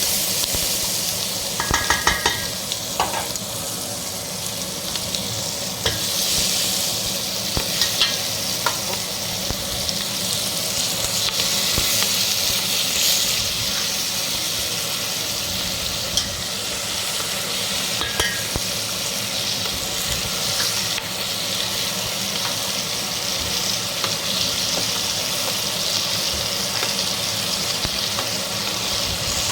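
Food frying in a pan with a steady sizzle, stirred now and then with a metal utensil that clinks against the pan a few times.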